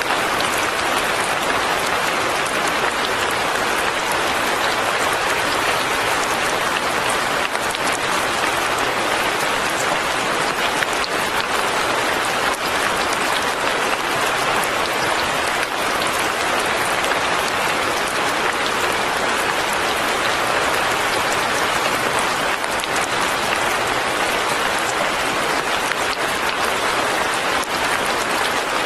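Steady light rain falling, an even hiss of many drops with no changes or distinct events.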